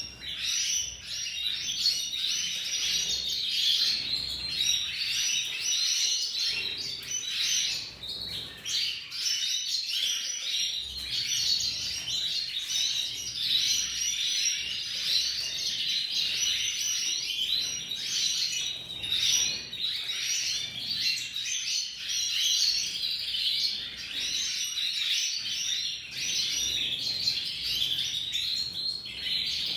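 Domestic canary singing a long, continuous song of rapid high warbles and trills, with only a couple of brief pauses.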